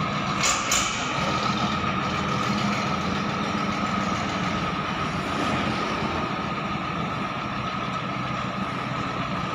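YTO 1304 tractor's diesel engine idling steadily, with two sharp clicks about half a second in.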